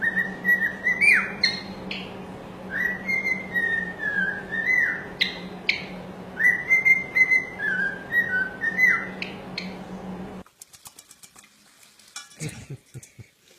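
A parrot whistling a tune: a run of clear whistled notes with quick swoops in pitch, over a steady low hum. It stops abruptly about ten seconds in, leaving faint clicks and scratches.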